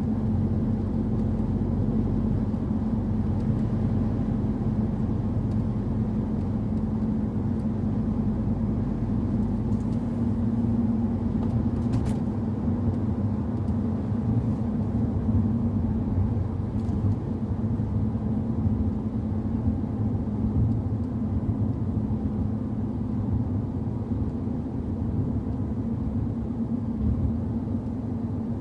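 Car engine running steadily with a low rumble, its pitch unchanging throughout, with no revving.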